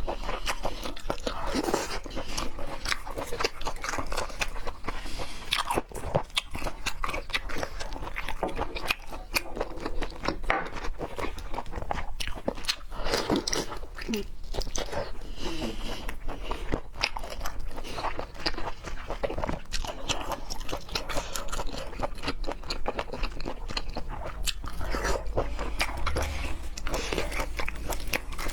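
A person chewing and biting raw seafood sashimi, a dense, continuous run of mouth clicks and bites.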